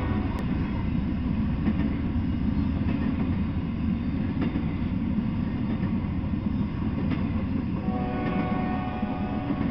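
Freight train of empty flatcars rolling past: a steady rumble of steel wheels on rail, with an occasional faint click.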